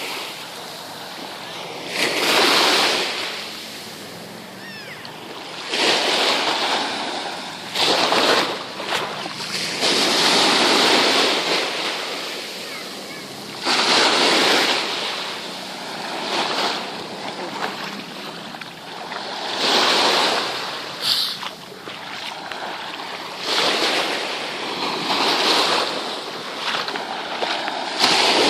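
Sea waves breaking on the shore: a rushing hiss that swells and fades, with a new surge every few seconds.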